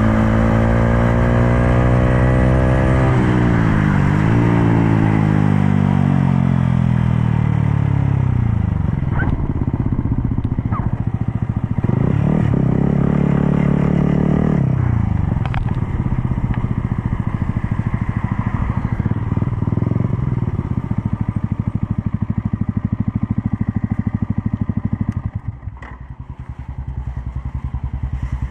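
Sport motorcycle's engine heard from the saddle while riding. Its pitch falls steadily over the first several seconds with a brief dip about four seconds in, climbs and falls again around the middle, and drops back near the end.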